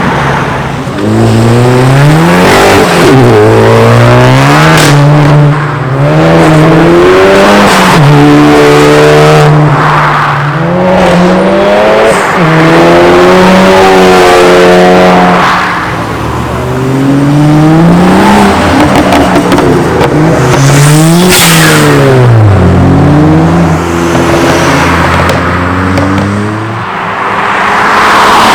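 Modified tuner cars accelerating away one after another, their engines revving hard. The engine pitch climbs and drops back again and again, loud throughout.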